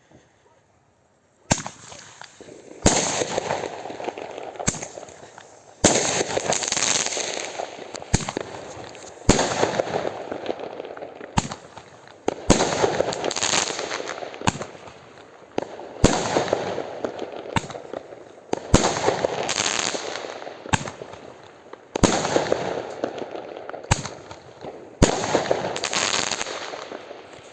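An 8-shot 'Hot Thunder' Roman candle firework firing. Starting about a second and a half in, there is a long string of sharp bangs, roughly one every second, each trailing off in a rush of noise that fades.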